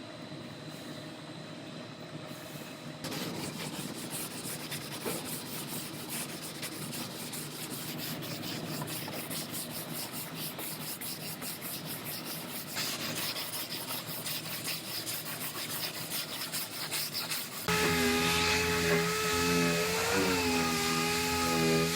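Rapid, even rubbing strokes as a rocker panel is worked by hand during filler-glaze repair. About eighteen seconds in, a louder power tool starts suddenly, with a whine that dips and rises.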